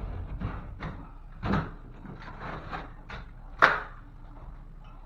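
Scattered knocks and scraping as dry ceiling drywall is cut out by hand with a razor knife, with one sharp crack about three and a half seconds in.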